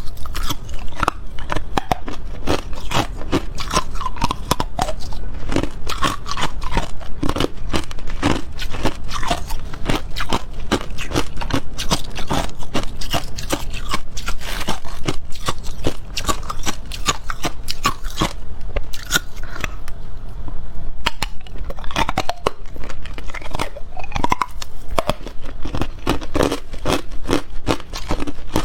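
Close-up crunching of ice being bitten and chewed: a continuous rapid crackle of breaking ice, steady and loud.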